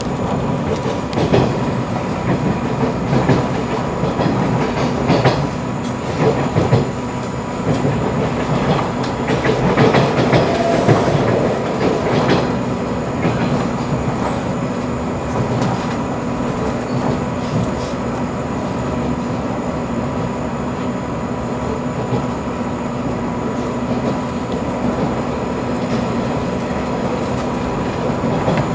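A 485-series electric train running, heard from inside the passenger car: a steady rumble with the wheels clicking over rail joints. The clicks are busiest and loudest in the first dozen seconds, then settle into a smoother run.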